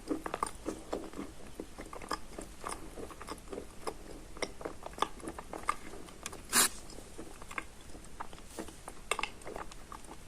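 Close-miked chewing of soaked Barsuk chalk mixed with crumbs of Lazurit chalk: a steady run of small wet crunches and crackles, with one sharper, louder crunch about six and a half seconds in.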